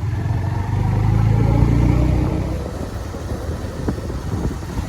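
Motor vehicle running with a low rumble that swells over the first couple of seconds and then eases off.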